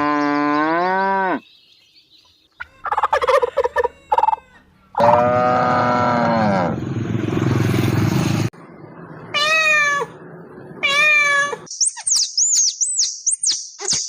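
A string of separate farm-animal calls. It opens with a cow's long, low moo, followed by several other calls with falling pitch, and ends with rapid, high-pitched chirping from small birds.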